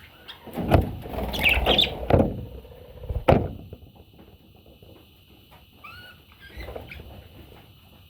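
Three or four dull thumps in the first few seconds, with short high chirps from parrot chicks, a few of them again later on.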